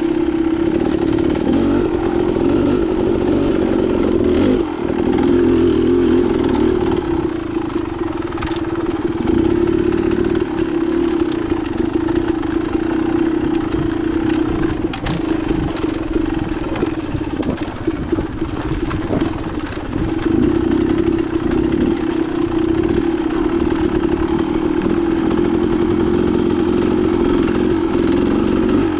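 Dirt bike engine running under throttle on rocky single-track trail. The engine note is mostly steady, with brief easings of the throttle about four seconds in and again around two-thirds of the way through.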